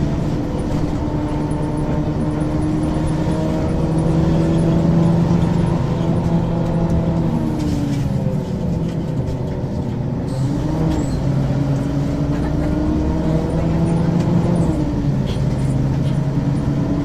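Ikarus 435 articulated bus with a ZF gearbox driving along, its engine running with a steady drone. The engine pitch sags and climbs back up about halfway through, and dips again near the end.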